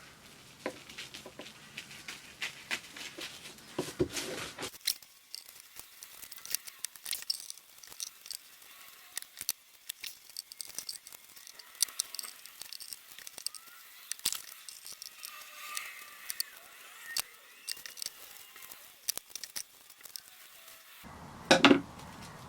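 Scissors snipping again and again through strips of clear, slightly tacky dried adhesive laid on cling film, with crinkling of the plastic film between cuts. A louder knock comes near the end.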